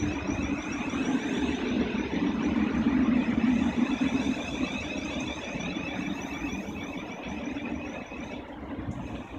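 Siemens Class 700 electric multiple unit running slowly into the platform: a low running rumble with a warbling high whine over it. The rumble is loudest about three seconds in and then eases, and the whine cuts off near the end as the train slows.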